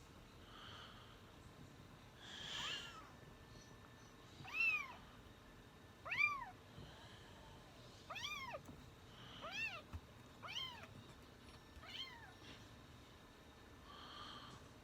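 Kitten meowing repeatedly: about six short, high meows, each rising and then falling in pitch, a second or two apart.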